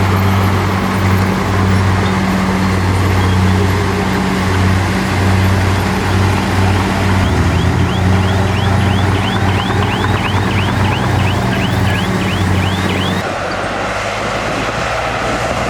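Heavy diesel earthmoving machinery running steadily with a deep engine hum. About halfway through comes a run of rapid high squeaks, about three a second, for several seconds. Near the end the sound drops abruptly and thins out.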